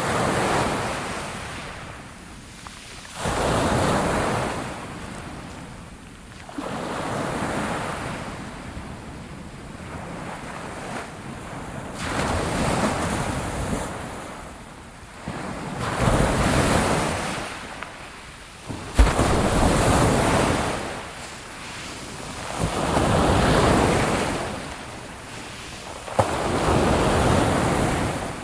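Sea waves breaking on a shore, one surge after another every three to four seconds, each swelling and then washing away. About two-thirds of the way through, a single sharp crack stands out as the loudest moment.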